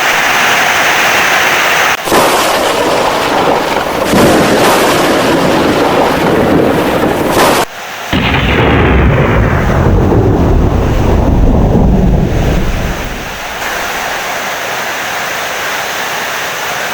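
Heavy rain with rolling thunder: dense, loud rain noise with rumbles, the deepest and longest rumble starting about halfway and dying away, leaving steady rain near the end.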